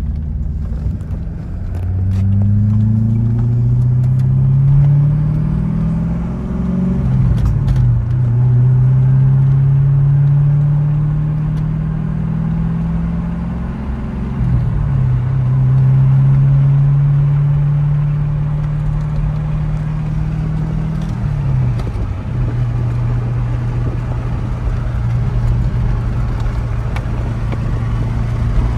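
1998 Chevrolet Corvette C5's 5.7-litre LS1 V8, heard from inside the cabin, pulling up through the gears of its manual gearbox. The revs climb steadily and drop at three upshifts about seven seconds apart, then the engine settles to a steady cruise.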